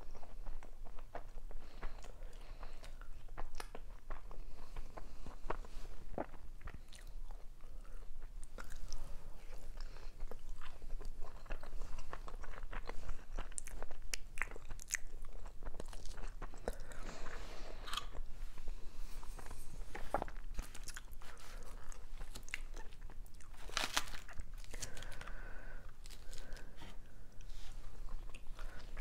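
Close-up chewing and crunching of dolmas (stuffed grape leaves) and lettuce salad, a steady run of wet bites and crunches.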